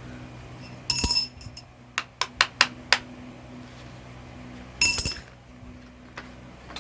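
Hammer blows on steel ringing out loudly twice, about four seconds apart, with a quick run of five lighter taps in between, over a steady low hum.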